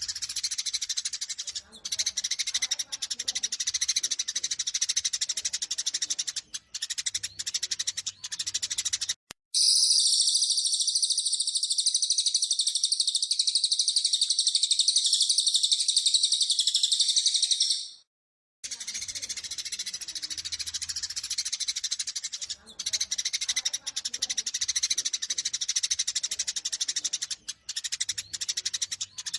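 Eurasian tree sparrows chattering in rapid, agitated fighting calls, used as a masteran to provoke a caged sparrow into calling. From about a third of the way in, for about eight seconds, a louder continuous high trill from another bird is cut in, then the sparrow chatter returns.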